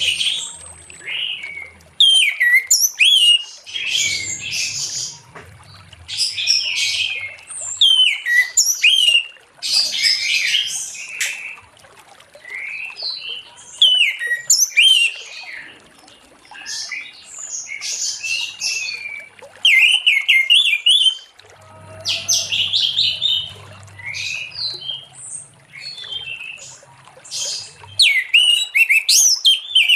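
Orange-headed thrush (anis merah) singing full song: phrases of rapid, varied high notes, one after another with short pauses about every second or two.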